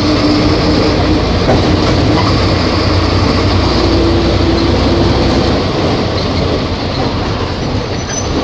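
Volvo B270F bus engine running, with a deep rumble and a steady whine that rises slightly in pitch. The deep note drops away about six seconds in.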